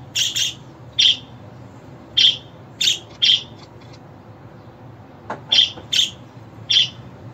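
Budgerigar chirps: short, sharp, high calls repeated at irregular intervals, about a dozen of them, with a pause of a couple of seconds in the middle.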